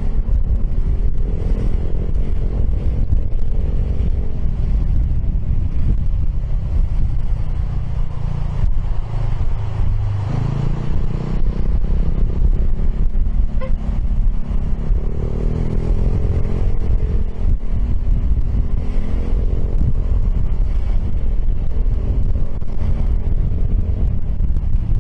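Wind buffeting the rider's microphone over the engine note of a Piaggio X10 maxi-scooter with an Akrapovic exhaust, its silencer inserts removed, rising and falling with the throttle several times.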